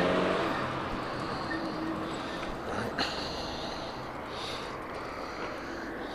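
A motor vehicle's engine fading away over the first second or two, leaving a steady rushing noise, with a single sharp click about three seconds in.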